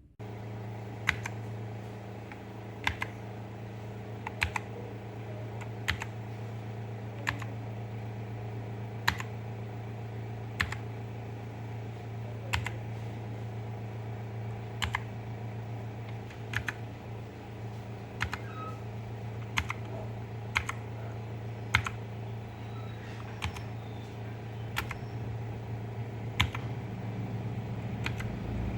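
Keys of a mechanical keyboard being pressed one at a time, a single sharp click about every second or so, over a steady low hum.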